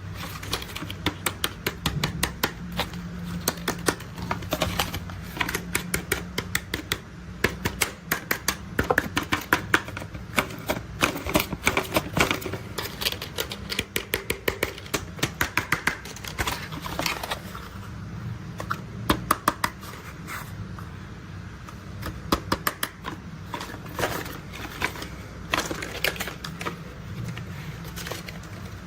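Rapid, irregular clicking and clattering of toy construction vehicles being handled, in bursts of many small sharp clicks with short pauses between. A low steady hum runs underneath.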